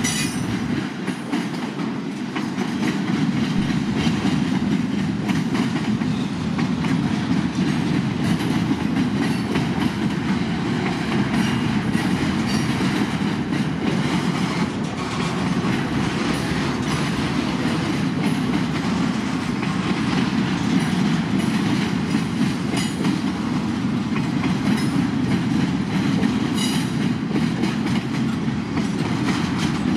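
Freight train flatcars rolling steadily past: a continuous rumble of wheels on rail, with irregular clicks and clacks from the wheels.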